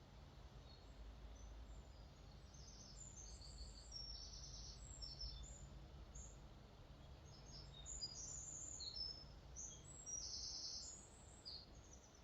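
Small songbirds chirping in many quick, high notes, over a faint steady low rush of water where a lake flows out into a river.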